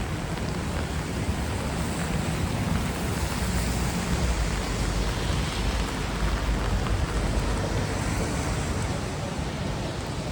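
Steady hiss of rain and traffic on wet city streets, with a low rumble swelling a few seconds in and easing off after.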